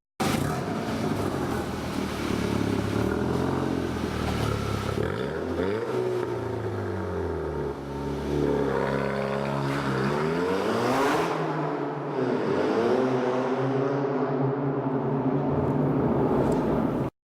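Golf 6 GTI's turbocharged 2.0 TFSI four-cylinder engine running, recorded on a phone. Its pitch drops about five seconds in, rises steadily to a high peak around eleven seconds, falls back, then holds steady.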